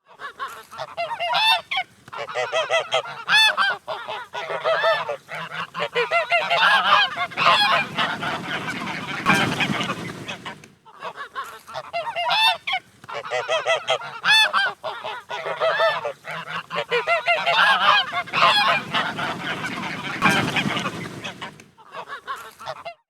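A flock of geese honking, with many short calls overlapping. The same stretch of about eleven seconds plays twice, with a brief break in the middle.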